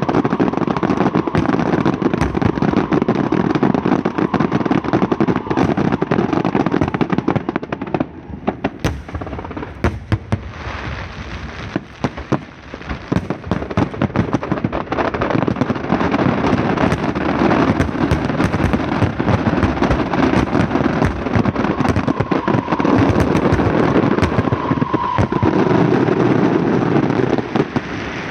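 Fireworks and firecrackers going off in a dense, rapid barrage of cracks and bangs, thinning out for a few seconds about a third of the way in, then building again and stopping just before the end.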